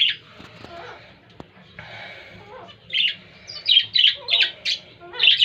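Budgerigars in a breeding colony calling: a sharp squawk at the start, a quieter stretch of soft chatter, then from about three seconds in a rapid run of short, sharp squawks.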